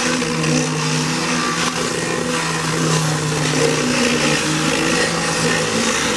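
Electric power sander running continuously while stripping paint. It makes a steady motor hum over a sanding hiss, with small shifts in pitch.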